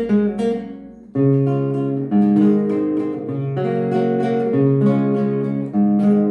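Acoustic guitar music: picked notes, a brief pause about a second in, then fuller strummed chords with a steady bass line.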